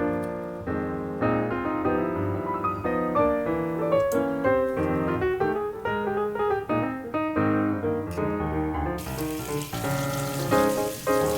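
Background piano music with a light melody. About nine seconds in, a steady hiss of water running from a kitchen tap starts under the music.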